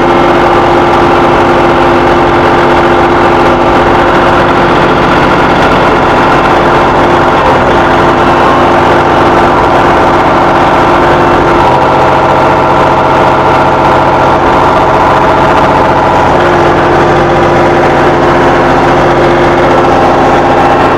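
John Deere 2038R compact tractor's diesel engine running steadily, its note shifting slightly about halfway through.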